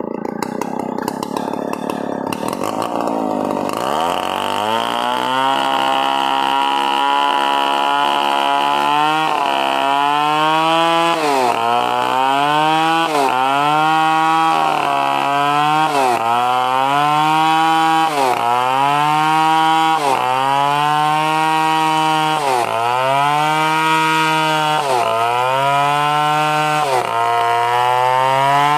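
Stihl 070 two-stroke chainsaw. After a few seconds of clatter it revs up and runs at high speed, then repeatedly bogs down sharply and recovers, roughly every two seconds, as the chain loads up in the cut.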